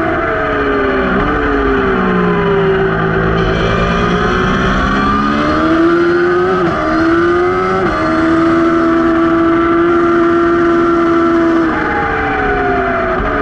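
Race motorcycle engine heard from the rear axle on track: revs fall under braking with a downshift near the start, climb through the gears with two sharp upshifts around the middle, hold steady at high revs, then drop again with downshifts near the end.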